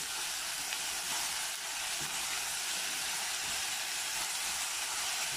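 Tuscan sausage pieces with onion, tomato and yellow bell pepper frying in a pot, a steady sizzle, with a few soft knocks and scrapes of a silicone spatula stirring them.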